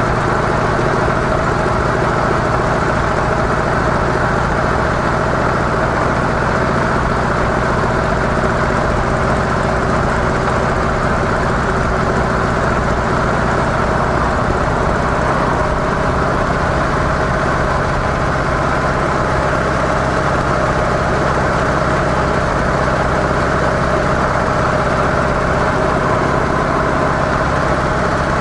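Harley-Davidson CVO Softail's V-twin engine running steadily through its stock mufflers, at an even pitch with no revving.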